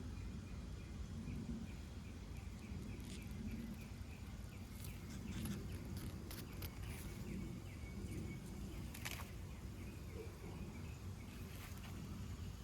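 A small animal chirping in a steady, even series of short high chirps, about four or five a second, that fades out about two-thirds of the way through, over a low rumble. A few sharp clicks sound, the loudest a little after the middle.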